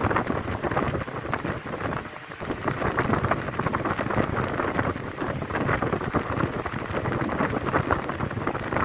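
Dômina 50 cm wall fan running, its airflow blowing on the microphone as an uneven rushing noise that dips briefly about two seconds in.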